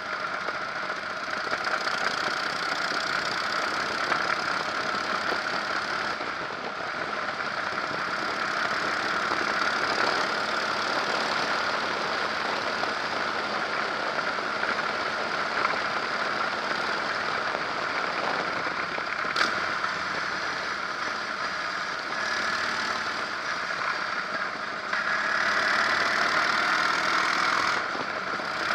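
Harley-Davidson Electra Glide's air-cooled V-twin engine running steadily while the motorcycle is ridden along a road, mixed with wind and road noise. It gets louder a few seconds before the end.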